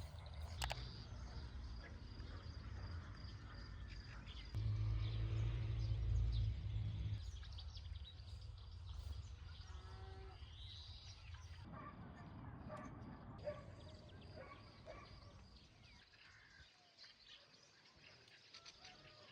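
Outdoor village ambience: birds chirping and calling in scattered short notes, over a low rumble that is loudest in the first several seconds and then fades away.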